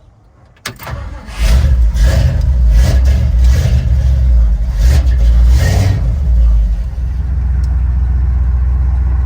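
A car engine starts up about a second in and is revved in a series of short blips, then settles into a steady, loud low-pitched idle.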